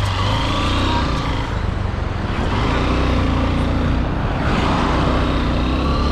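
Honda CRF150L's single-cylinder four-stroke engine running steadily under way, with a constant rush of wind and road noise.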